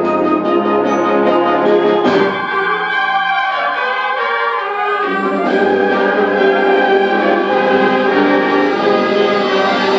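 Concert band playing: sustained chords in the winds and brass, with a sharp accent about two seconds in.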